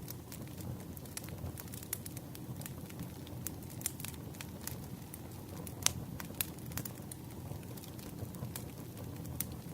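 Campfire burning: a steady low rumble of flames with irregular sharp crackles and pops of burning wood, the loudest pop about six seconds in.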